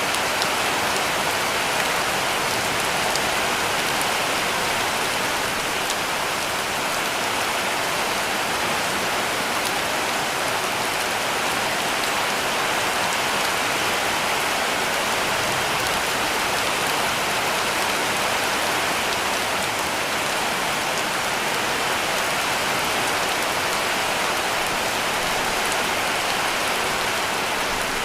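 Heavy rain falling steadily on a roof, a dense even hiss of drops with no break or change.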